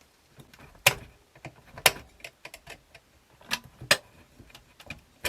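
A metal tool scraping and picking at hardened glue on a small plastic motor bracket inside a cassette deck, breaking it free. Four sharp clicks at irregular spacing stand out among fainter scratchy ticks.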